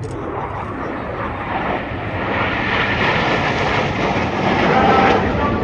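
Red Arrows BAE Hawk T1 jet making a fast pass, its engine noise building steadily to a peak about five seconds in.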